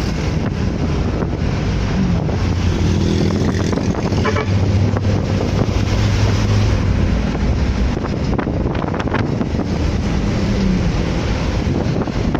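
Wind buffeting the microphone over road and engine noise while riding at speed in traffic. A low, steady engine hum runs from about two seconds in until near the end.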